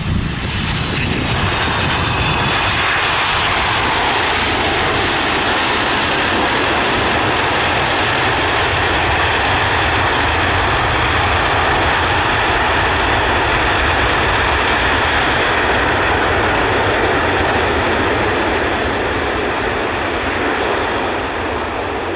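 Boeing 767 airliner's jet engines during landing: a loud, steady roar with a faint high whine in the first seconds. It swells over about two seconds, holds, then slowly eases off near the end.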